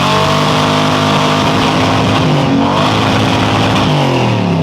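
Small racing engine running hard at high revs, its pitch dipping briefly about halfway through and falling near the end as it eases off.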